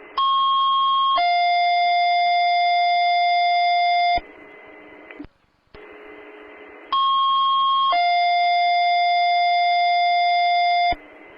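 Two-tone sequential paging tones over a fire dispatch radio channel: a higher tone for about a second, then a lower tone held for about three, sent twice with a few seconds of radio hiss between. They alert departments ahead of a MABAS box alarm announcement.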